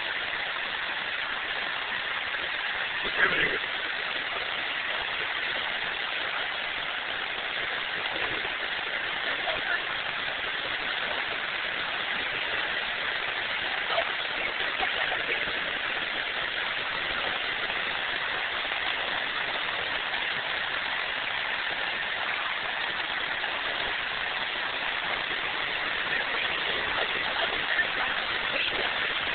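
Steady rain falling, an even hiss, with a louder knock about three seconds in.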